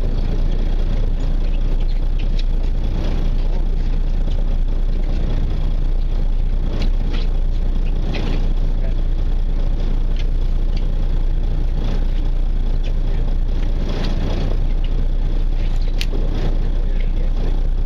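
A fishing boat's engine running steadily, a continuous low rumble, with a few faint clicks over it.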